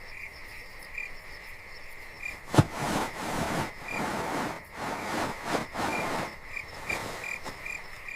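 Frogs croaking in a chorus, with a steady high trill and regular chirps behind them. There is a sharp click about two and a half seconds in.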